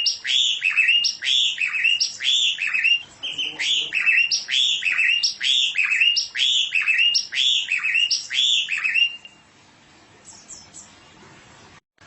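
A songbird chirping: a rapid series of sharp, repeated notes, about two a second, each sweeping down in pitch. The run stops about nine seconds in, leaving only a few faint high notes.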